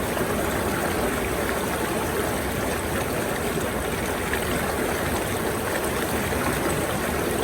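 Steady rushing and burbling of a flowing stream.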